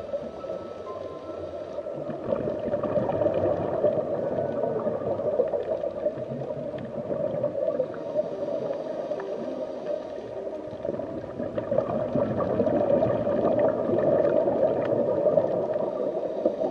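Underwater water ambience: a steady, churning bubbling and gurgling that swells a little in the second half.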